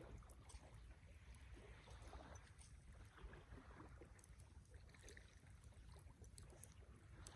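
Faint, scattered crackling of a wood campfire over a low steady rumble.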